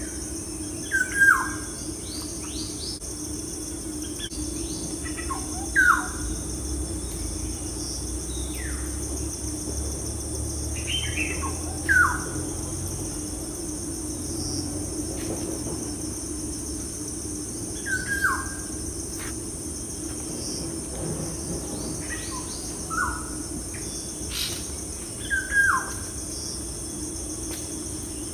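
A bird calling every five or six seconds, each call a short note falling in pitch, over a steady high-pitched hiss.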